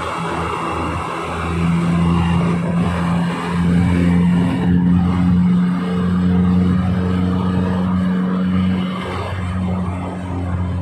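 Toyota Kijang's engine and exhaust running with a steady drone. It grows a little louder about a second and a half in and eases back near the end.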